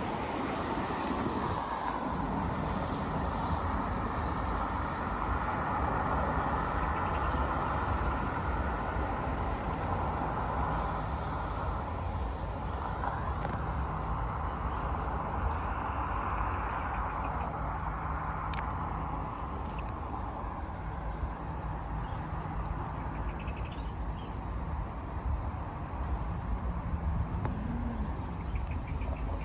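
A GB Railfreight freight train rolling through a level crossing: a steady rumble of wheels on the rails over a low, even diesel hum. Faint bird chirps come and go above it.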